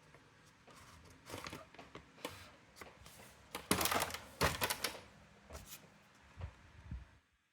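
Irregular mechanical clicks and rattles from a Brother AX-425 electronic typewriter or its parts being handled, loudest in a dense flurry about halfway through, with a few knocks after it. The sound cuts off suddenly shortly before the end.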